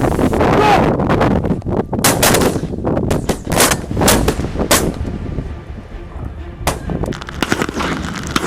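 A rapid volley of shotgun shots from several guns, about half a dozen sharp reports between two and five seconds in and one more near seven seconds, fired at incoming pink-footed geese. Goose honking is heard in the first second, with wind buffeting the microphone throughout.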